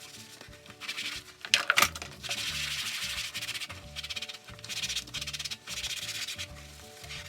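Scrubbing with a dish sponge: a run of rubbing strokes that starts about a second in and comes in several bursts. Soft background music plays underneath.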